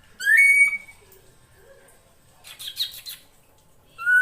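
Female drongo calls: a loud, rising whistled note, a harsh rasping chatter about two seconds in, then another rising whistle near the end.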